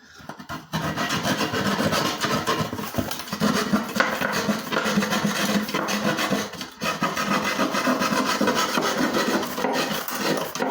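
Hand keyhole drywall saw cutting through sheetrock in rapid back-and-forth strokes, a scratchy rasping sound broken by a few brief pauses.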